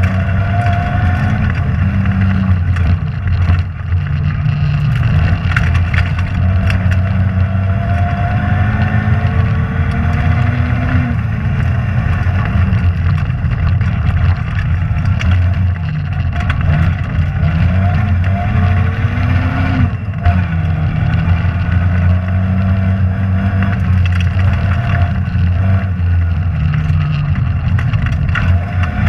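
Rally car engine at high revs, its pitch climbing and dropping repeatedly as the car accelerates, shifts gear and brakes along a stage.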